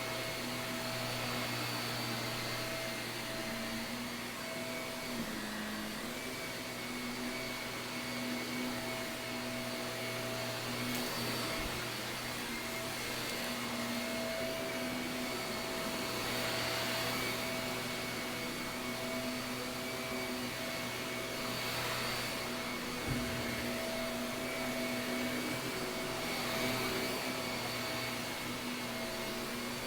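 Shark vacuum cleaner running on carpet: a steady motor hum and whine, with the rush of air swelling every few seconds as it is pushed back and forth. A couple of faint knocks.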